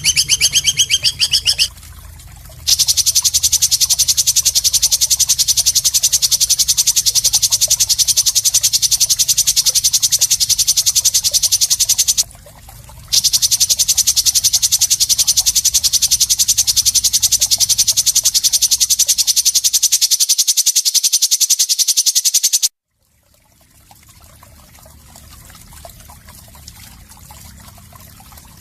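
A harsh, very fast buzzing rattle, high-pitched and held for long stretches with two short breaks, is played as a rough 'mbeset' fill for training songbirds. It cuts off suddenly near the end, leaving a faint trickle of water.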